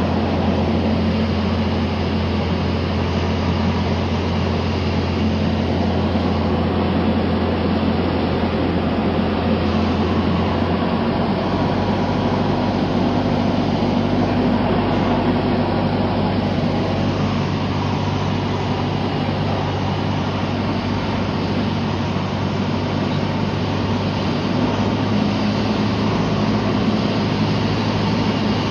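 Cessna 172 engine and propeller drone heard inside the cabin in flight: a loud, steady noise over a low hum. About eleven seconds in, the low hum shifts slightly higher in pitch.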